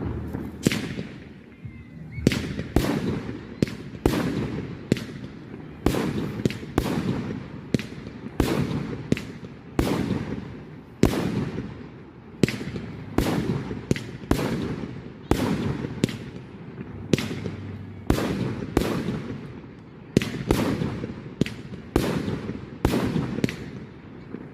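Firework display: a rapid run of aerial shells bursting, sharp bangs about one to two a second, each followed by a long echoing rumble.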